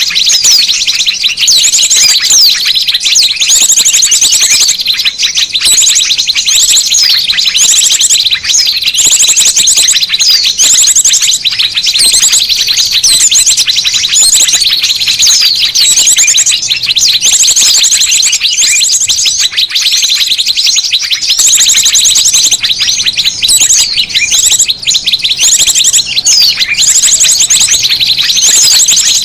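A dense, noisy chorus of many small birds chirping and trilling without pause, with rapid high trills repeating about once a second over steady chirping. It is a bird-lure recording of excited small-bird calls, used to draw small birds in.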